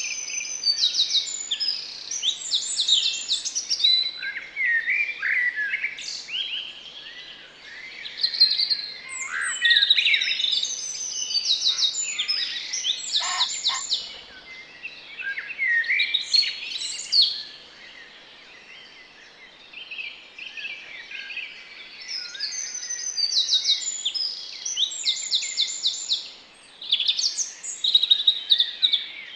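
Several garden birds singing and calling at once, overlapping songs with fast trills, easing into a quieter stretch about two-thirds of the way through before picking up again.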